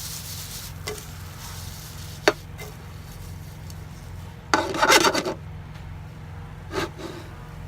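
Chicken pieces frying in a hot oiled pan, with a faint sizzle, a few sharp knocks and a louder scraping rub lasting about a second around the middle, over a steady low hum.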